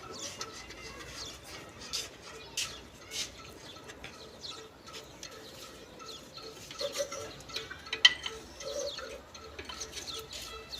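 Large slow-running Ruston Hornsby single-cylinder diesel engine running with an even beat of about two and a half a second, with scattered sharp clicks and chirps over it.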